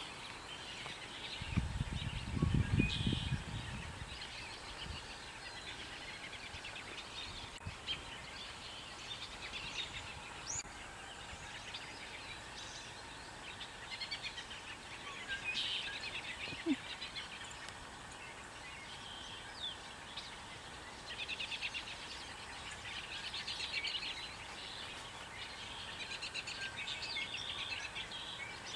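Small birds chirping and twittering on and off, over a faint background hiss, with a brief low rumble about two seconds in.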